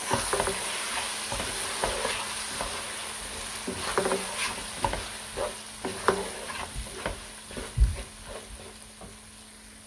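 Cubed potatoes, fried onions and spices sizzling in hot oil in a nonstick pot as a wooden spoon stirs them, with scattered knocks and scrapes of the spoon against the pan. The sizzle gradually dies down.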